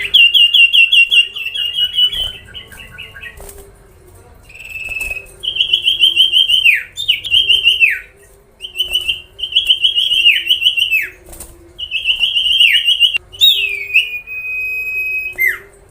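A songbird singing loud, rapid trilled phrases, each a second or two long with short pauses between. Several phrases end in a quick downward swoop, and near the end comes a long, steady whistled note.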